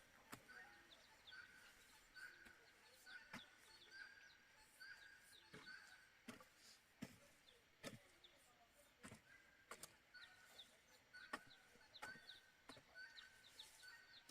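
Faint outdoor ambience: a bird calling in two runs of short repeated chirps, about two a second, with scattered sharp clicks.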